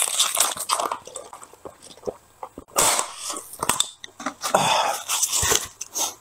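Close-miked chewing and other mouth sounds, coming as irregular clicks and short rustling bursts.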